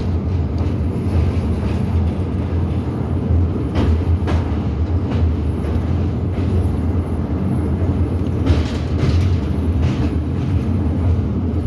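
Passenger train running steadily over a steel truss bridge, heard from inside a coach: a continuous low rumble of wheels on the rails, with a few sharp clicks as the wheels pass over rail joints around the middle.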